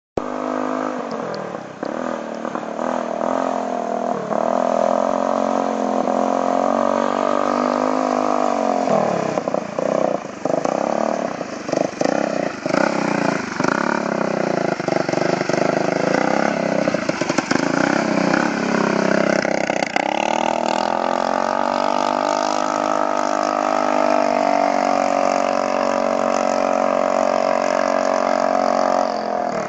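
Small riding lawn mower engine running loud through a transport-truck horn welded on as its exhaust pipe, so the exhaust sounds as a strong horn-like note that follows engine speed. The note drops about nine seconds in, runs unevenly and choppily for about ten seconds, then holds steady again until it stops near the end.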